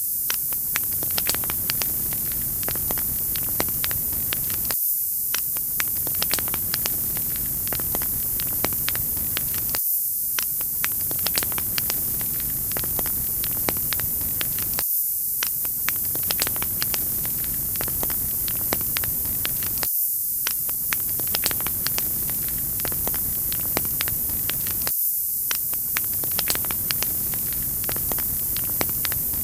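Wood fire crackling in a fireplace: sharp pops and snaps over a steady hiss. The texture dips and starts over about every five seconds, like a short recording played on repeat.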